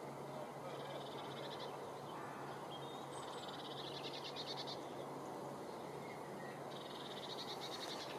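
Outdoor meadow ambience with a rapid, high-pitched rattling trill from a small animal, heard three times: about a second in, around the middle, and near the end. Each trill lasts a little over a second.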